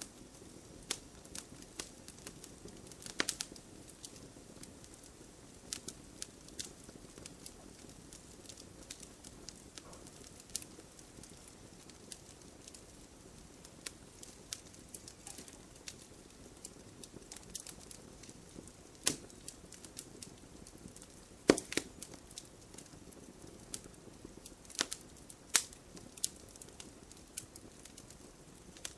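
Wood campfire crackling: irregular small pops and ticks over a soft, low hiss from the burning wood. Several louder sharp snaps come through, the biggest about three seconds in and again past the middle.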